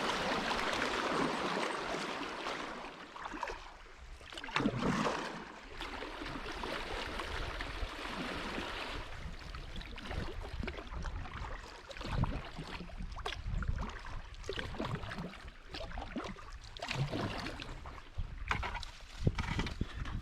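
Kayak paddle strokes splashing in river water at an irregular pace, over moving water and a low steady rumble.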